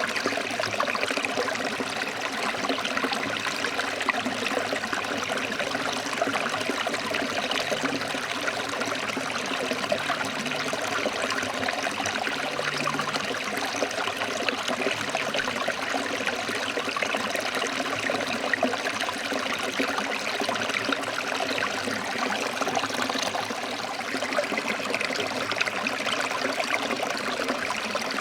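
Stream running over rocks: a steady rush of water with fine splashing and babbling.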